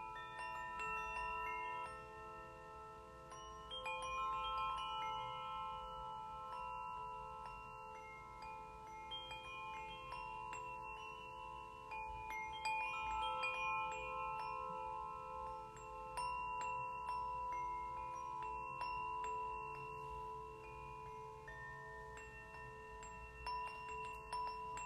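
Steel tongue drum (glucophone) played slowly: single notes at several different pitches struck one after another, each ringing on for several seconds so that the tones overlap.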